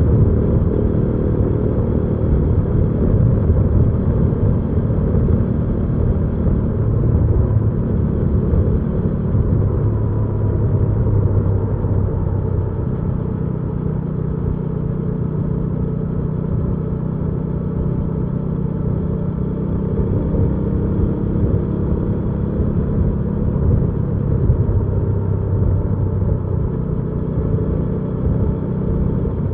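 Hyosung GV300S Aquila 300's V-twin engine running steadily while riding, with a continuous low rumble and some shifts in engine note.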